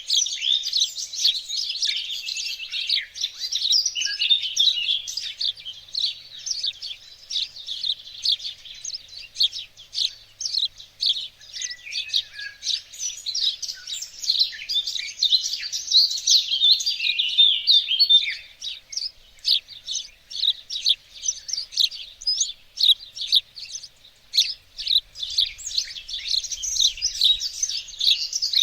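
Several small songbirds singing and chirping at once, a dense, unbroken chorus of quick high chirps and trills.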